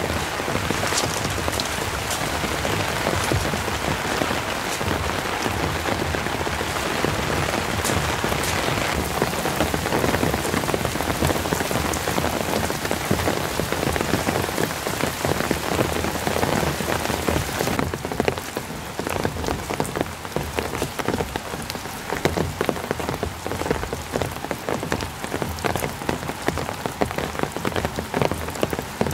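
Steady rain falling on a tent shelter's fabric and the trees around it, a dense hiss of drops. About 18 s in, the hiss thins and individual drops tick out more sharply.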